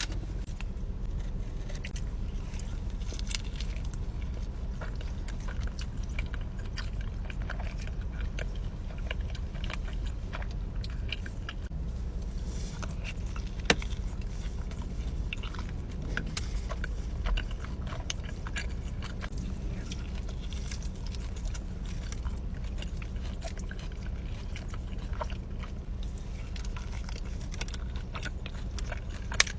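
A person biting and chewing food close to the microphone: many small wet clicks and crunches over a steady low rumble, with a sharper click about 14 seconds in.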